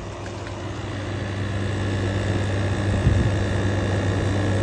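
Air conditioner running in cool mode on high, its compressor and fan giving a steady low hum with a faint higher whine, gradually louder.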